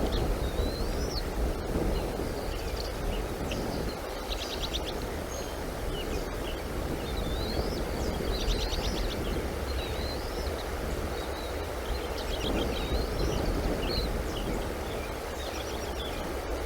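Birds chirping with short rising and falling whistles and a few quick trills, over a steady rumble of wind on the microphone.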